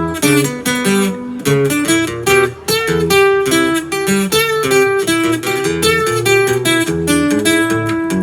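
Acoustic guitar strummed and picked in a steady rhythm, playing an instrumental passage.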